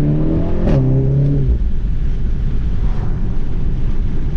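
Golf 7 R's turbocharged 2.0-litre four-cylinder, through its Akrapovic exhaust, pulling at a steady engine note with a brief click under a second in. The note fades about a second and a half in as the throttle is lifted, leaving a low road rumble.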